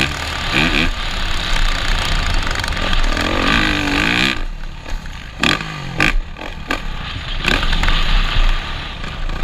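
Motocross bike engine revving, its pitch climbing and dropping with the throttle. About halfway through it falls back to a few short throttle blips, then picks up again. Wind rumbles on the microphone throughout.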